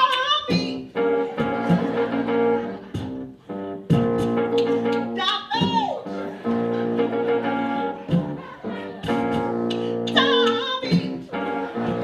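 Electronic keyboard playing held chords over a programmed drum beat. A voice sings sliding notes three times, about five seconds apart.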